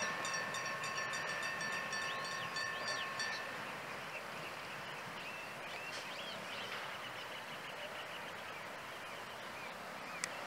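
Loaded container flat wagons of a freight train rolling past. A steady high-pitched tone with a rapid ticking above it cuts off about three seconds in, then the wagons fade to a quieter, even rumble.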